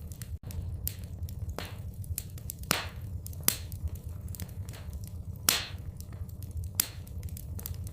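Fireplace fire crackling: irregular snaps and pops over a steady low rumble, with a couple of louder pops.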